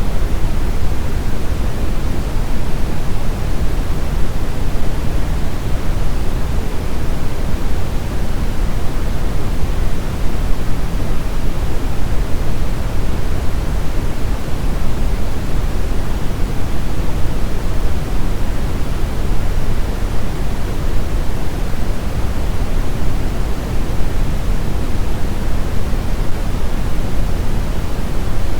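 Steady brown noise: an even, deep rushing hiss weighted heavily toward the bass, with no changes or events.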